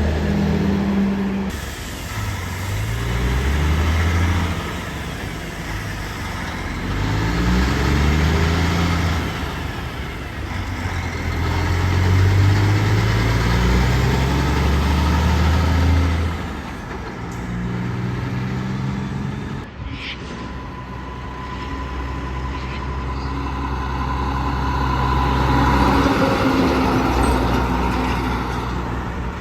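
Diesel semi-truck engines accelerating, the engine note climbing and dropping back again and again as the trucks shift up through the gears. There is a brief hiss about twenty seconds in.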